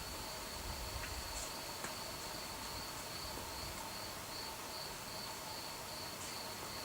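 Crickets chirping on a summer night: a steady, high, pulsing chirp repeating about two to three times a second, with fainter lower trills beneath. A faint low rumble fades out about a second in.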